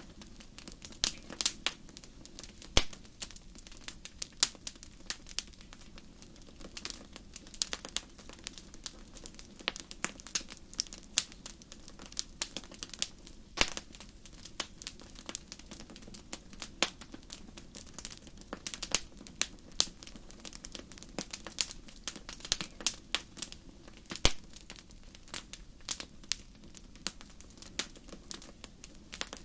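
Fireplace fire crackling: irregular sharp pops and snaps, several a second and a few louder than the rest, over a low steady rush of the flames.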